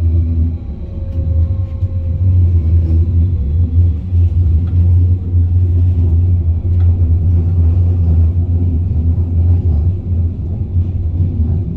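Stuttgart U2 U-Bahn light-rail train running through a tunnel: a loud, steady low rumble of wheels on rails and traction motors, building over the first couple of seconds and then holding.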